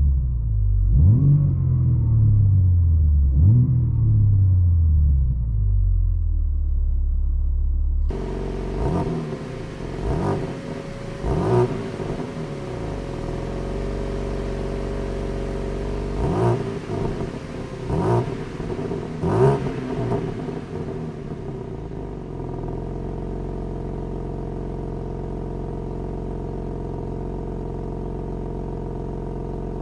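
BMW M3 G80's 3.0-litre twin-turbo S58 straight-six revved in neutral. The first few blips are heard from inside the cabin with M Sound Control on; after an abrupt cut they are heard from outside the car. There are about five short blips, and the engine then settles into a steady idle from about two-thirds of the way in.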